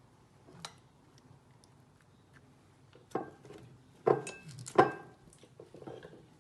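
Kitchenware knocking and clinking against a lasagna baking dish as sheets are laid in, a handful of sharp knocks with brief ringing, the loudest two about four and five seconds in.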